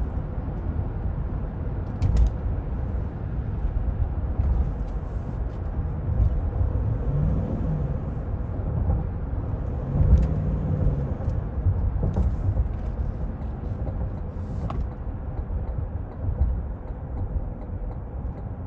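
2024 Cadillac Escalade being driven, heard from inside the cabin: a steady low engine and road rumble, with a few brief clicks or knocks.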